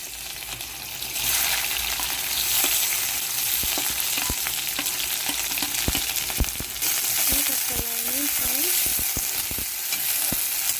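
Onions sizzling in hot oil in a pan, with a spatula clicking and scraping against the pan as they are stirred.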